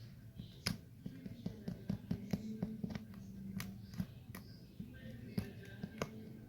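Background music with irregular small wet clicks and taps, a few a second, as of a kitten lapping and chewing soft wet food.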